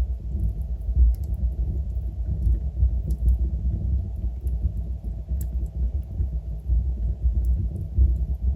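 Fireplace fire burning with a deep, steady low rumble and sparse, faint crackles from the logs, one sharper pop about five seconds in.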